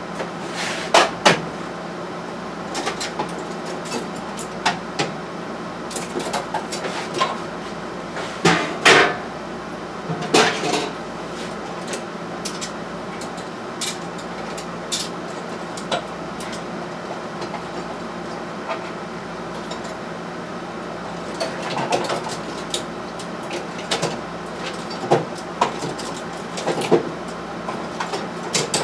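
Metal tools and small metal parts clinking and clanking at irregular intervals, as in hands-on mechanical work on a bench, over a steady background hum.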